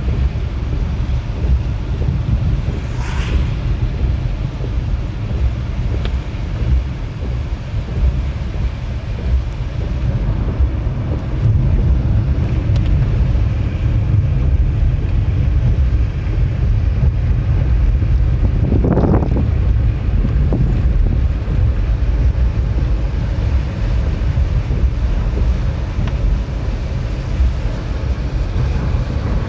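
Strong typhoon wind buffeting the microphone: a steady heavy low rumble, with a brief swelling whoosh about nineteen seconds in.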